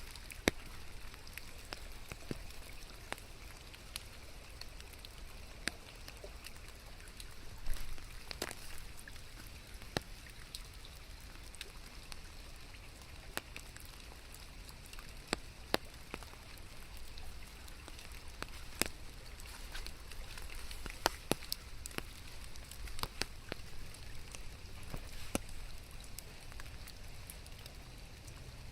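Steady rain falling, with scattered sharp drops ticking at irregular intervals.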